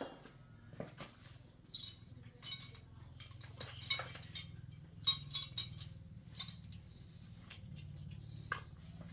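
Light metallic clinks and taps of hand tools and small engine parts being handled and set down, in irregular clusters, over a faint steady low hum.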